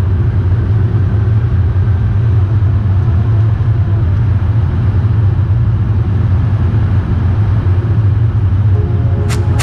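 Cabin noise inside a Swiss Airbus A220-100: a steady, loud, low rumble from its Pratt & Whitney PW1500G geared turbofans and the airflow over the fuselage as the jet flies after take-off.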